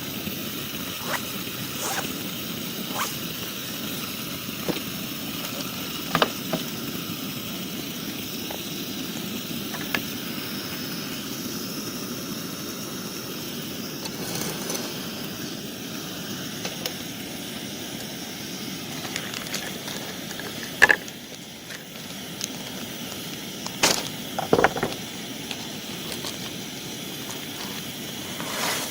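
Campfire crackling over a steady hiss, with scattered snaps and a few louder pops about two-thirds of the way through.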